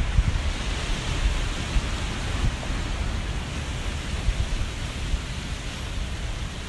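Wind buffeting the microphone, an uneven low rumble, over the steady hiss of sea surf.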